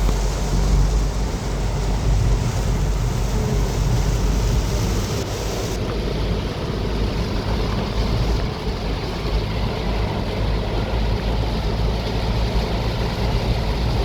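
A car driving through heavy rain on a water-covered road: a steady low rumble of the car with the hiss of rain and of tyres throwing up water.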